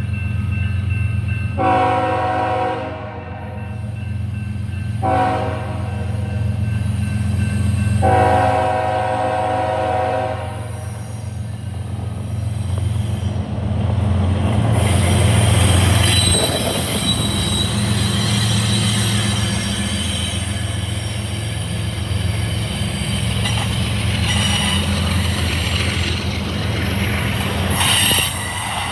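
Diesel freight locomotives (GE ES44-series) passing, their engines running steadily low underneath. The air horn sounds three blasts: a long one, a short one, then a long one ending about ten seconds in. After that the wheels run on the rails with a thin, high squeal.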